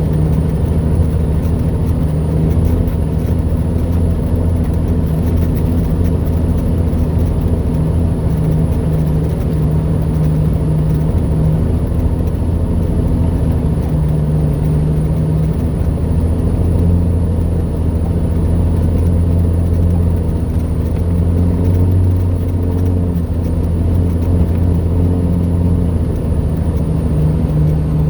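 Heavy truck engine pulling steadily under load up a mountain grade, heard from inside the cab as a continuous low drone that shifts slightly in pitch partway through.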